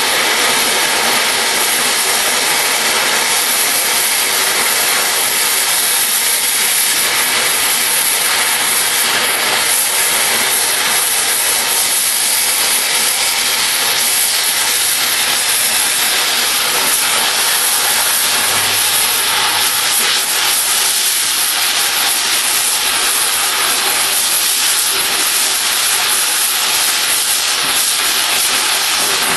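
Oxy-fuel cutting torch burning through steel railroad rail: a loud, steady hiss of the cutting jet.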